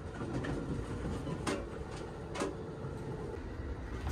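Steady low running rumble inside a moving Amtrak Superliner railcar, with two sharp knocks a little under a second apart near the middle.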